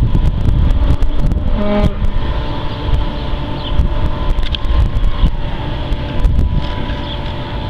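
Case IH 280 Magnum tractor's diesel engine running steadily with a low rumble, with wind buffeting the microphone.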